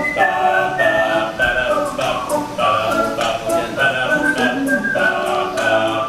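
Men's a cappella group singing a wordless instrumental introduction in several vocal parts over a steady beat.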